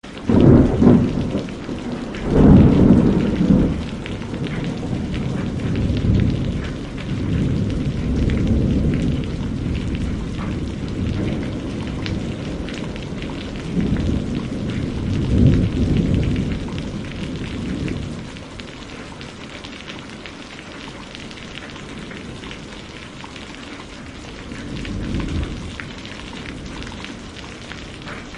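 Steady rain falling, with rolling thunder rumbling in low swells. The loudest rumbles come in the first few seconds and again about halfway through, and it eases to quieter rain later on.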